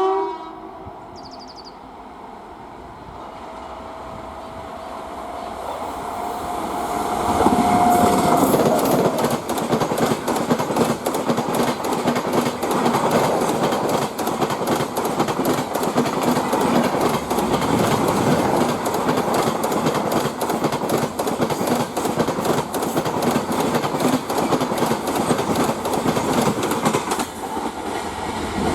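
A passenger train approaches and passes at speed on the elevated track. A horn blast cuts off right at the start. A steady whine rises as the train nears, then the wheels clatter rapidly over the rail joints for about twenty seconds as the coaches go by.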